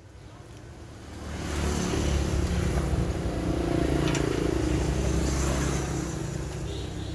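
A motor starts up about a second in and runs steadily with a low hum, easing off slightly near the end.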